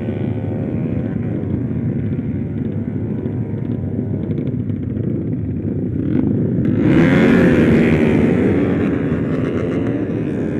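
Small motorcycle engine running under way while towing another motorcycle, its pitch rising and falling a little, with a steady wind rush on the microphone. About seven seconds in a louder rushing noise swells for a couple of seconds, then eases.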